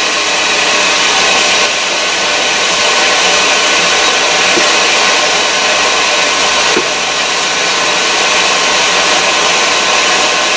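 Forge blower running steadily, a constant whooshing rush of air feeding the fire.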